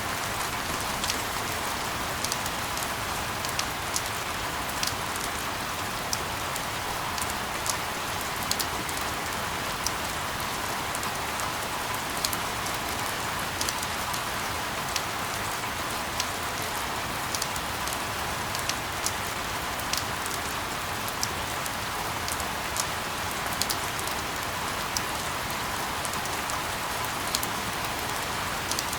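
Steady rain falling as an even hiss, with frequent sharp ticks of single drops hitting a surface.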